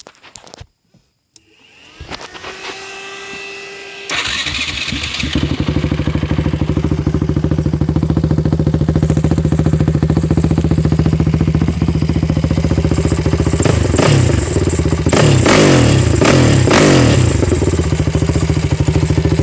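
2006 Honda TRX450R's single-cylinder four-stroke engine with an HMF full exhaust being started. It cranks for about two seconds, catches about four seconds in and settles into a steady, loud idle. There are a few short revs about two-thirds of the way through.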